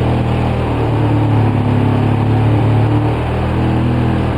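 2004 Polaris Sportsman 700 twin-cylinder engine idling steadily on partial choke. It has a rough idle that has not levelled out, and it dies when the choke is eased off, a fault the owner puts down to the carburetor and its boot.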